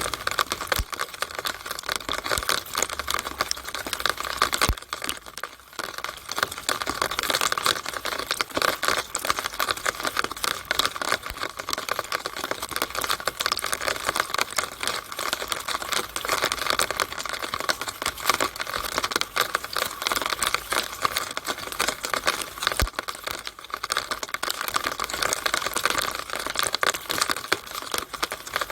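Rainwater running through a downspout in the rain: a dense, irregular patter of drips and splashes that keeps on steadily.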